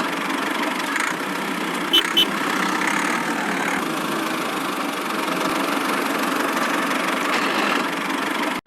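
A small motor running steadily, with two sharp clicks about two seconds in; the sound cuts off abruptly near the end.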